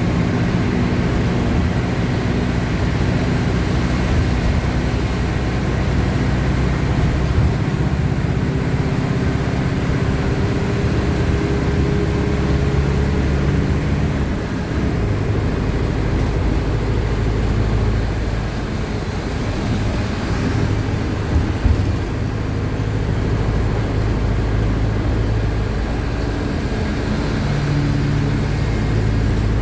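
Diesel engine of a Mercedes-Benz OF-1519 BlueTec 5 city bus running while the bus drives, its engine note changing pitch several times as engine speed rises and falls. A single short knock about two-thirds of the way through.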